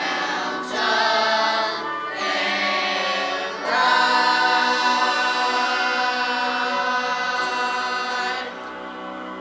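Choir singing with accompaniment: two short phrases, then a long held final chord from about four seconds in, which ends and fades near the end.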